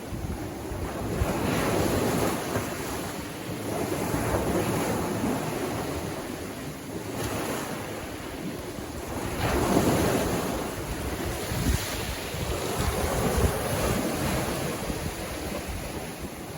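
Sea waves breaking and washing up a beach, the surf swelling and fading every few seconds, with the loudest break just under ten seconds in.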